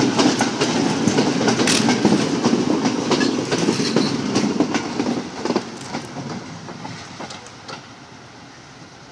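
Passenger coaches of an express train rolling past at speed, wheels clattering over the rail joints in quick clicks. The sound fades away over the last few seconds as the train pulls off into the distance.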